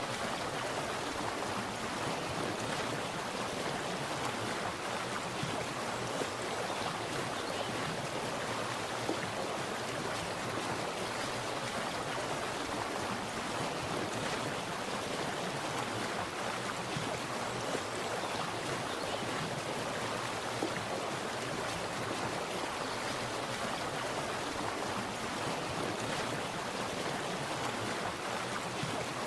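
Water splashing and running steadily, an even rushing with no pauses or single splashes standing out.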